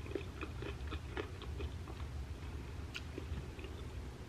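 Close-miked chewing of a mouthful of soft shrimp taco: wet mouth smacks about four a second at first, fewer toward the end, over a low steady hum.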